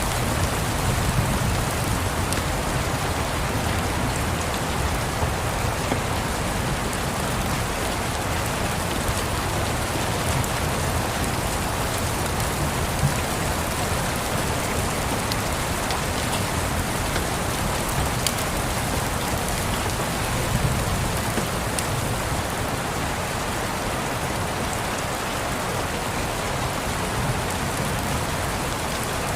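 Steady rain pattering, with occasional faint crackles from a wood fire in a fireplace.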